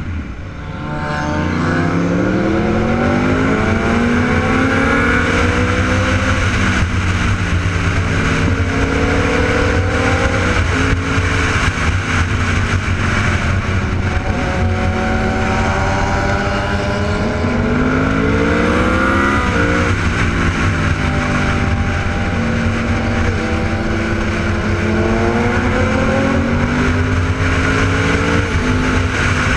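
Superbike motorcycle engines running hard under a steady low rumble. The pitch climbs for several seconds at a time, then drops back, repeatedly, as the bikes accelerate and shift through the gears.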